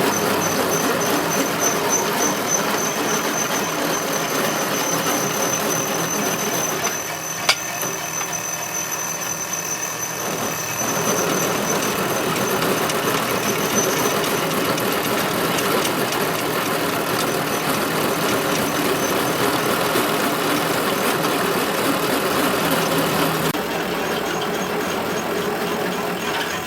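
Workshop machinery running steadily with a thin high whine, and one sharp click about seven and a half seconds in.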